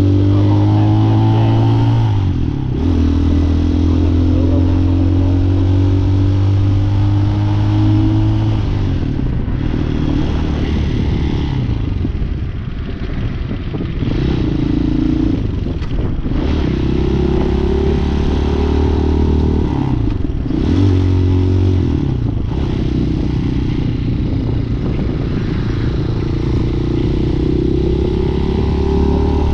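Hawk 250 dual-sport motorcycle's single-cylinder engine under way, its pitch climbing through each gear and dipping briefly at several gear changes, with wind rushing past the microphone.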